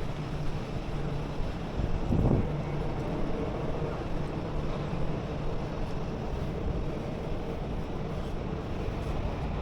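Steady outdoor background rumble, heaviest in the low range, with some wind on the microphone. It swells briefly about two seconds in.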